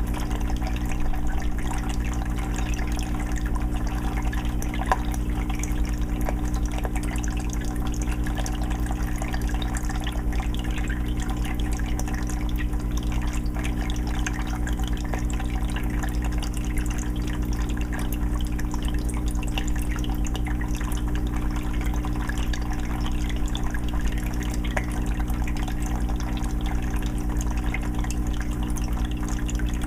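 Fish tank water filter running: water trickling and dripping back into the tank in a constant stream of small splashes, over a steady low hum from the filter motor.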